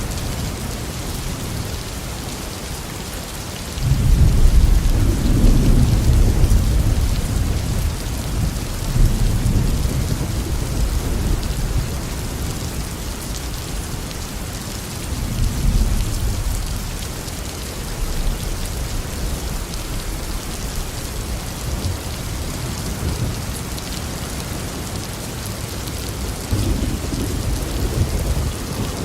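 Tropical rain falling steadily, with rolling thunder that breaks in suddenly about four seconds in and rumbles on for several seconds. The thunder swells again a few times, once more near the end.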